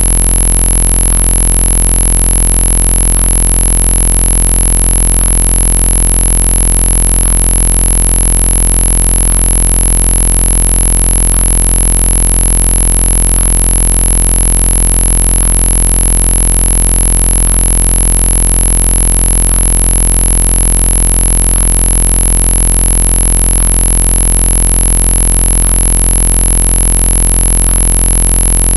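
A very loud, harsh electronic noise that never changes: a dense hiss with a steady low drone and a piercing high-pitched whine. Faint blips come about every two seconds.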